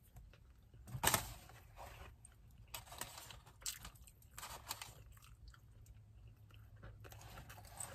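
Close-up chewing and biting of a crumbly Subway sandwich. There is a sharper crunch about a second in, then quieter scattered chewing sounds.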